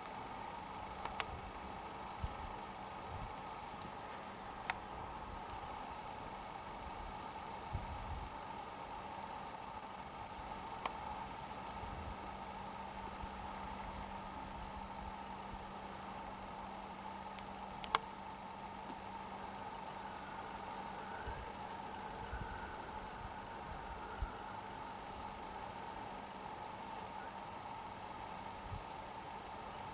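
Insects chirring: a high, thin buzz that breaks off and starts again every second or two, over a steady lower drone, with a few faint clicks.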